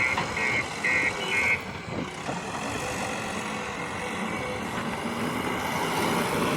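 Diesel engine of heavy farm machinery running steadily, with a reversing alarm beeping about twice a second for the first second and a half, four beeps in all.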